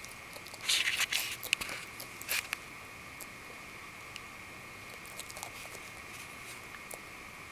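Bearded dragon biting and crunching mealworms: a quick run of crisp crunches about a second in, then a few faint clicks of chewing.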